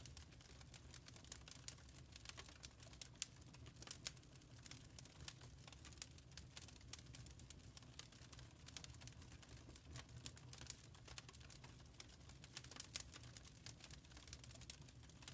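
Faint wood fire crackling in a fireplace: irregular sharp pops and snaps, a few a second, over a low steady rumble.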